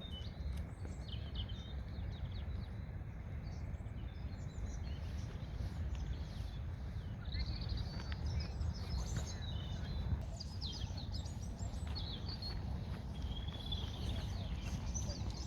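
Several songbirds chirping and trilling, busier in the second half, over a steady low rumble.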